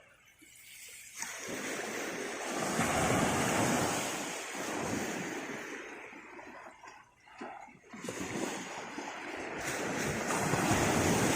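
Sea waves washing onto the beach, surging up and falling away twice.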